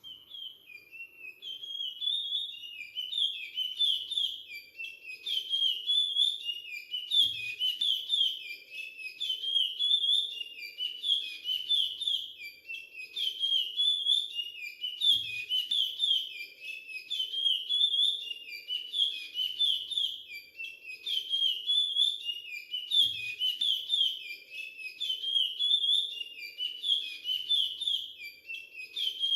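Young chestnut-bellied seed finch (curió) singing continuously: rapid, clear whistled notes strung into the same phrase over and over with short breaks, the Timbira Virado Clássico song dialect.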